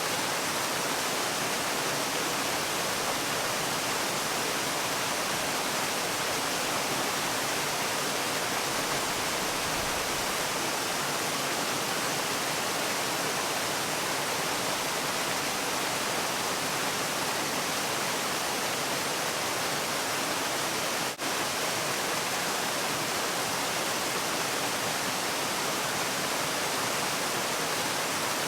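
Waterfall: a steady, even rush of falling water, with a split-second dropout about three-quarters of the way through.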